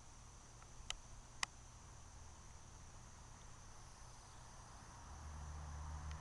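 Faint steady chirring of crickets, with two sharp clicks about a second in and a low rumble rising near the end.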